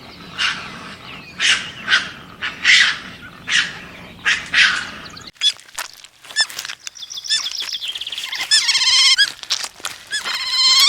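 Bird calls in two parts. First comes a run of seven short, harsh calls spaced about half a second to a second apart. After a sudden change about five seconds in, a small bird chirps with quick rising notes, breaking twice into a rapid trill.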